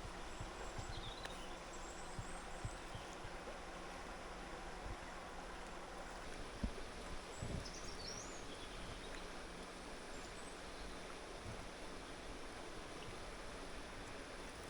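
Steady rushing of a river, with a few short bird chirps scattered over it and an occasional faint knock.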